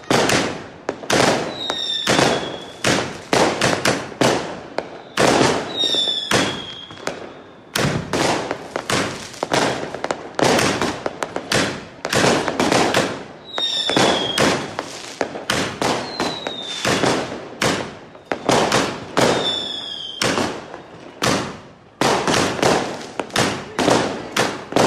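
Fireworks bursting in rapid, overlapping succession, bang after bang with no let-up. Several short falling whistles are heard among the bursts.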